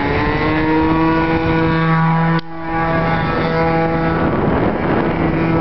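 Radio-controlled model airplane's motor and propeller running at a steady pitch, with a buzzing hum. It cuts out abruptly for a moment about two and a half seconds in, then resumes.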